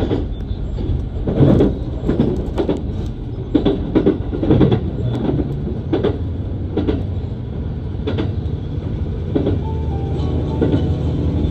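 HC85-series hybrid diesel train heard from inside the passenger car while running: a steady low rumble with irregular clunks of the wheels going over rail joints, roughly one a second.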